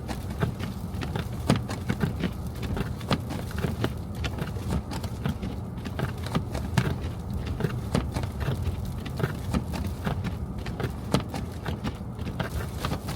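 A car driving through snow-covered streets: a steady low road rumble with many irregular clicks and knocks.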